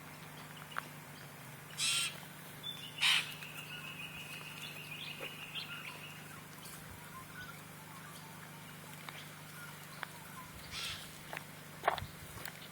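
Wild birds calling: a short harsh call about two seconds in, a louder one a second later followed by a thin, steady whistled note lasting about three seconds, and another harsh call near the end. A sharp click comes just before the end.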